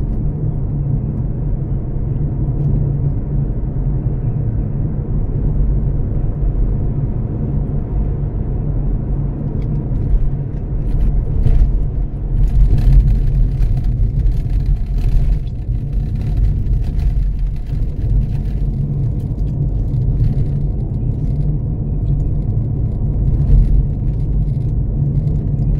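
Steady low rumble of engine and road noise inside a moving van's cabin, with scattered knocks and rattles from bumps in the middle.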